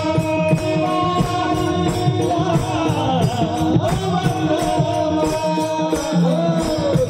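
Devotional bhajan: a voice singing a bending melodic line over steady held instrumental notes, with mridang drum strokes and jingling percussion keeping an even rhythm.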